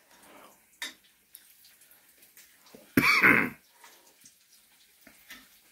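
Oil bubbling faintly in a frying pan as batter-coated Oreos fry, broken about three seconds in by a single loud cough-like throat-clear lasting about half a second.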